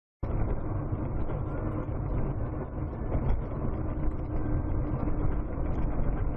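Steady road and engine rumble of a moving vehicle, muffled as picked up by a dashcam, cutting in abruptly right at the start.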